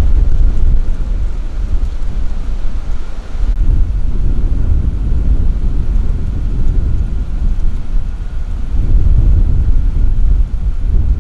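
Strong, gusty wind buffeting the microphone: a loud, low rumble that swells and eases, with stronger gusts about midway and again near the end.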